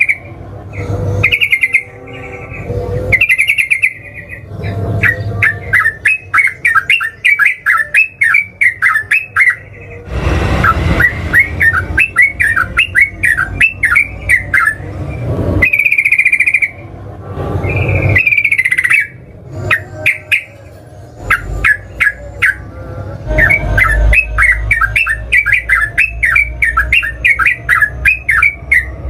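Yellow-vented bulbul (trucukan) singing: long runs of rapid, bubbling chattering notes lasting several seconds each, repeated with short pauses between the runs.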